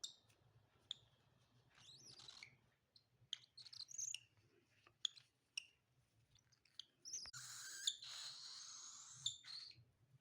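Cockatiel chicks calling faintly: scattered short chirps and clicks, then a longer raspy, hiss-like begging call from about seven seconds in that stops a little before the end.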